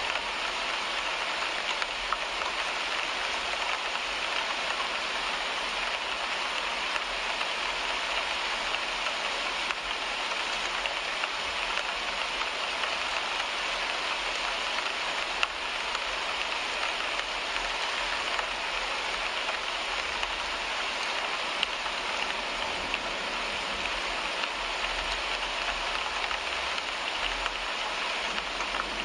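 Steady rain falling on a car windshield: a dense, even hiss of drops on the glass, with now and then a single drop ticking a little louder.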